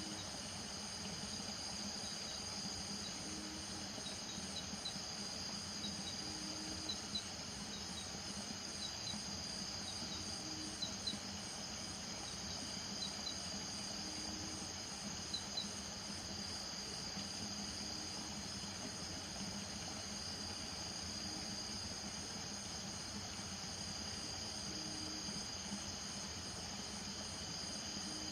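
Night chorus of crickets and other insects trilling steadily and high, with frogs giving short low calls every few seconds. Pairs of brief higher chirps come through during the first half.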